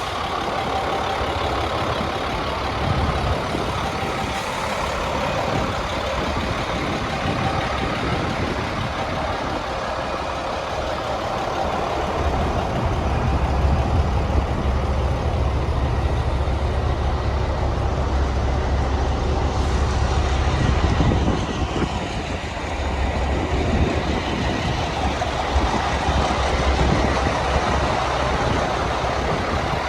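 International DT466 diesel engine of a 2002 International 4300 truck running steadily, its low drone growing louder for several seconds in the middle before easing back.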